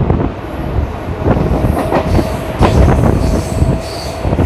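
Mumbai suburban electric local train running at speed, its wheels knocking repeatedly over rail joints under a heavy rumble. From about a second in, a steady high squeal rides over it.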